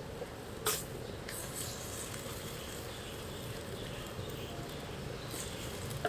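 Kitchen cooking sounds: a steady hiss from food cooking on the stove, with one sharp utensil clack under a second in and a few faint ticks.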